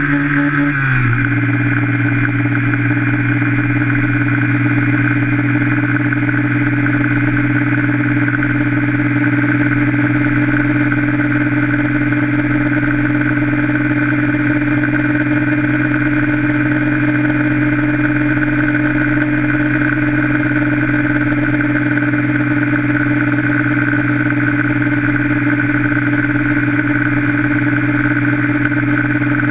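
Yamaha Factor 125 single-cylinder four-stroke motorcycle engine running at constant revs, its pitch dropping slightly about a second in and then holding steady.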